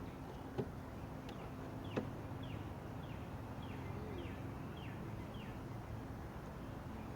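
A bird calling a quick series of about eight short, falling whistled notes, roughly two a second, over a steady low hum. Two sharp clicks come near the start and are the loudest sounds.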